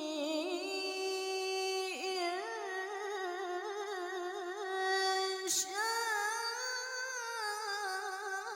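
A woman's voice chanting Quran recitation in the melodic tilawah style, holding long, ornamented vowels with a wavering vibrato. A quick breath is taken about five and a half seconds in before the chant resumes.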